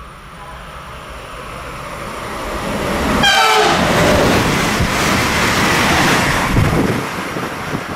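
A fast electric train approaches and passes at speed. About three seconds in, a short horn blast drops in pitch as it goes by, and then the loud rush of the train passing slowly fades near the end.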